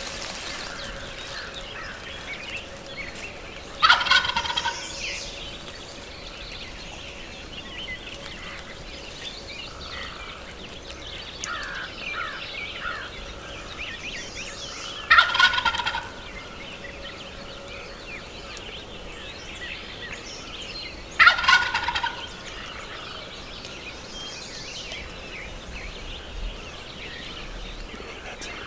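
Wild turkey gobbler gobbling three times, about ten and six seconds apart, each gobble a loud rattling call of about a second. Fainter small bird calls come in between.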